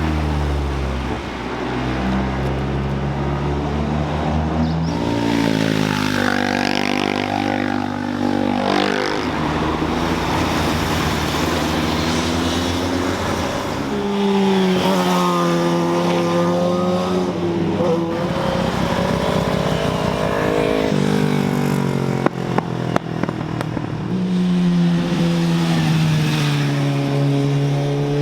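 Sports cars and sport motorcycles passing one after another through a mountain-road corner, their engines revving up and down in pitch as they brake, shift and accelerate away. A short run of sharp pops comes a little past two-thirds of the way through.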